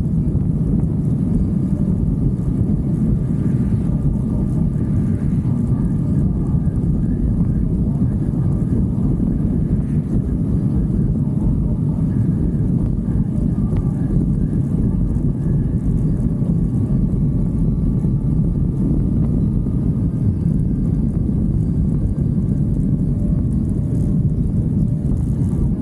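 Motorcycle riding at a steady speed: a constant low rumble of engine and wind buffeting the microphone, with no change in pitch or level.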